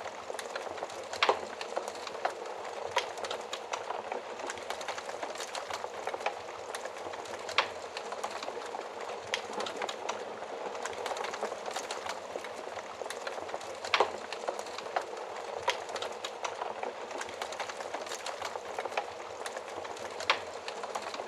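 Wood fire crackling: a steady hiss of flames with many small crackles and a few louder, sharp pops spaced several seconds apart.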